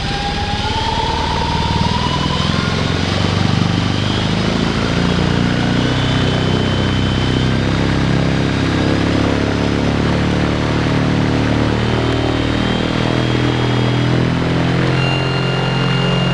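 A 40 kW brushless DC electric motor spinning a three-blade carbon-fibre propeller at speed. The motor's whine rises in pitch over the first two seconds or so, then holds steady over the propeller's rushing, humming drone.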